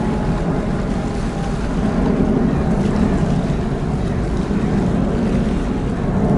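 Steady, loud jet engine noise of a Boeing 777-300ER's GE90 engines as the airliner goes around after an aborted landing, mixed with wind noise on the microphone.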